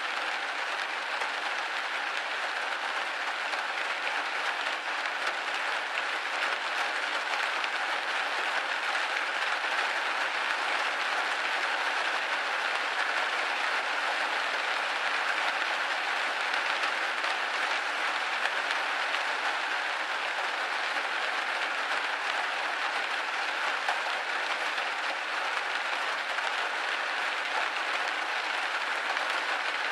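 Steady rain pattering on a window pane, a dense even patter with no distinct drops standing out.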